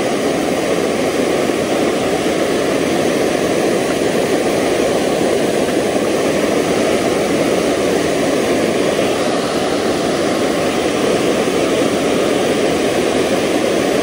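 Steady roar of rushing creek water, an even, unbroken noise.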